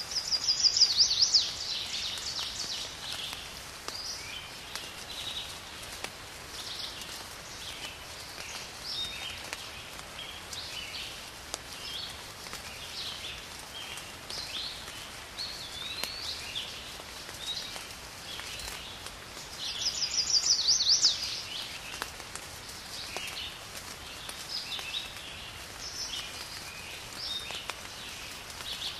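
Songbirds chirping and whistling in short, varied calls, with a louder rapid trill about a second in and again near the twenty-second mark, over a faint steady background hiss.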